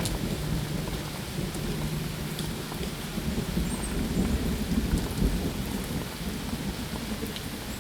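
Steady rain falling, with a low rumble of thunder swelling up in the middle and fading.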